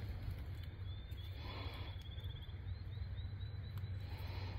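Outdoor woodland ambience: a small bird chirping in a quick high-pitched series from about a second in, over a low steady rumble.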